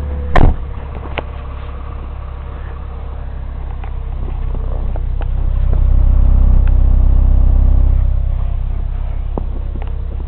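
Chevrolet Cavalier 2002 four-cylinder engine running on a cold morning, with one sharp knock just after the start. About four seconds in, the engine note swells for a few seconds, as in a light rev, then settles back to idle.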